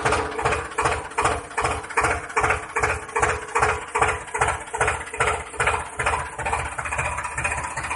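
Small engine of a homemade tractor running with a slow, regular chug of about two to three beats a second, settling into a steadier, faster run near the end.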